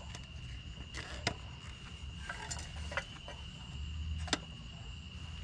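Scattered light metallic clicks and clinks of a tool and metal parts being handled while working at the screws of a cover. A steady high-pitched tone sits underneath.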